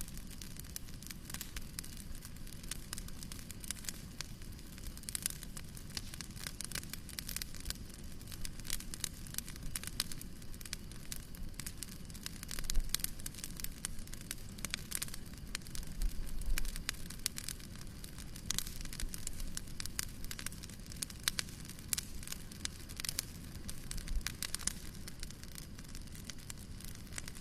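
Wood fire burning in a fireplace: a steady low rumble of the flames with irregular crackles and snaps, and a louder pop about 13 seconds in and a burst of crackling around 16 seconds.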